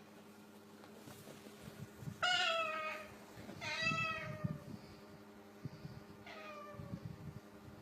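Three drawn-out cat-like meows, each sliding down in pitch: one about two seconds in, a second a little over a second later, and a fainter, shorter one near the end.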